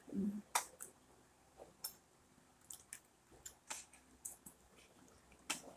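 Chewing and small mouth clicks of people eating soft brownies, with scattered light clicks and rustles spread through.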